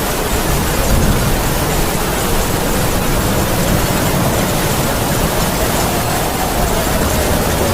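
Heavy rain falling in a steady, dense downpour, with wind howling in a faint tone that slowly rises and falls.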